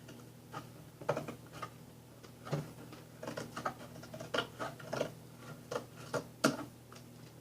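Scissors cutting a small piece off an object, a series of irregular snips and clicks, over the steady hum of a window fan.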